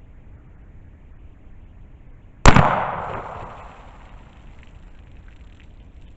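A single gunshot from a Hi-Point 1095 10mm carbine, about two and a half seconds in, its echo dying away over a second or so.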